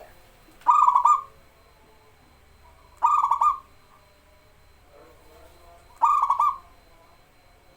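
Zebra dove (perkutut) cooing: three short phrases of rapid pulsing coo notes, about three seconds apart.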